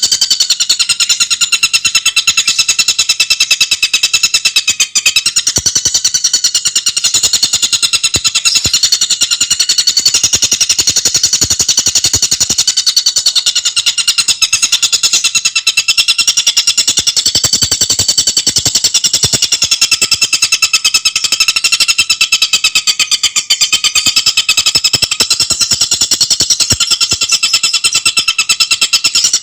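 Tengkek buto bird singing a loud, unbroken, very rapid trill of high notes, the rattling, fast-paced song used to train other songbirds.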